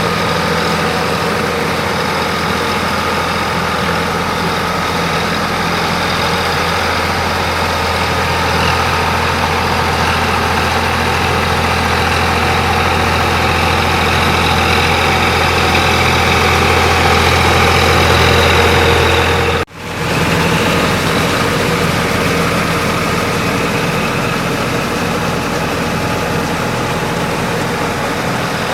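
Sonalika DI 47 RX tractor's diesel engine running steadily with a strong low hum, briefly cut off about twenty seconds in and then resuming.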